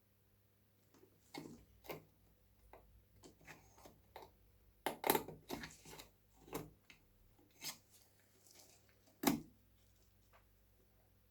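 Irregular light clicks and knocks from the lantern's small sheet-metal parts being handled, with the loudest knocks about five seconds in and near the end.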